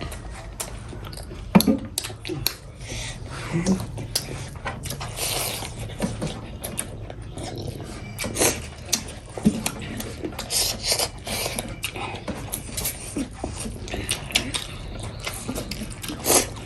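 Close-miked chewing and wet mouth sounds of people eating: irregular clicks, smacks and squishes.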